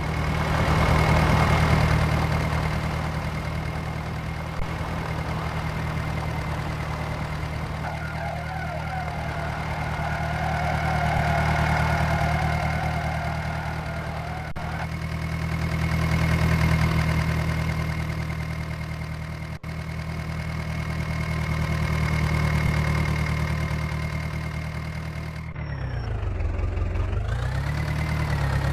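Tractor diesel engine running steadily, its level swelling and easing every few seconds. About 26 seconds in, the engine speed drops sharply and comes back up.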